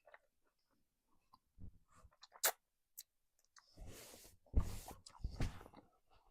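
A person eating close to the microphone: chewing and mouth sounds with scattered small clicks. There is one sharp click about halfway through, and a run of louder, rougher bursts near the end.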